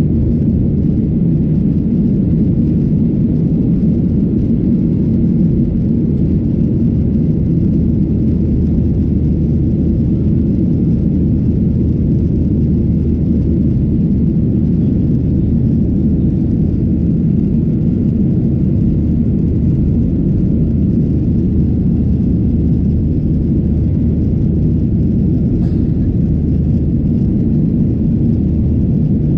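Steady, loud low rumble inside the cabin of a Boeing 737-800, its two CFM56-7B26 turbofan engines running, heard from a window seat.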